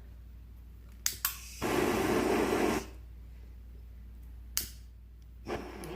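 Butane torch lighter clicked twice and then lit, its flame hissing for about a second before it shuts off; another sharp click follows a couple of seconds later.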